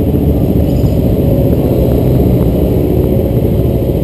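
Kawasaki Ninja 250's parallel-twin engine running as the motorcycle rides off, a steady low sound muffled by a camera mounted on the bike.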